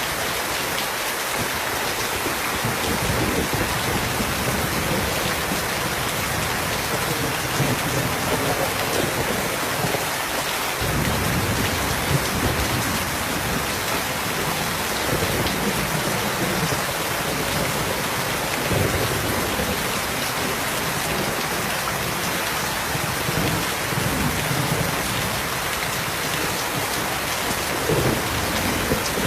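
Steady rain falling, with low rolling thunder rumbling underneath that grows stronger about ten seconds in and keeps surging.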